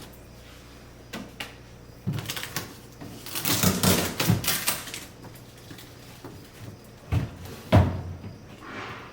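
Rustling, clicking and knocking as parts and packaging inside a new refrigerator are handled. A busy rustle and clatter comes about three to five seconds in, and two dull thumps about half a second apart come near the end, the second the loudest.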